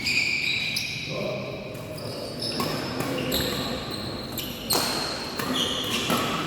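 Badminton play on an indoor court: repeated racket strikes on the shuttlecock and footfalls, mixed with short squeaks of shoes on the court floor.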